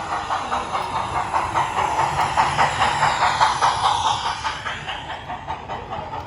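A train running past, its wheels clattering in a rhythm of about four or five beats a second. It grows loudest about three seconds in, then fades away.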